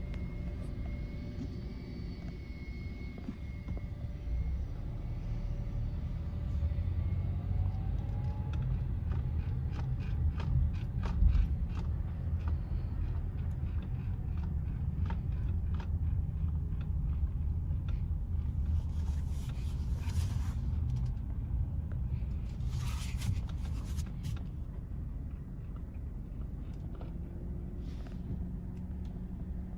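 Car rumbling along at low speed, a steady low drone with scattered light clicks and two short hissing bursts about two-thirds of the way through.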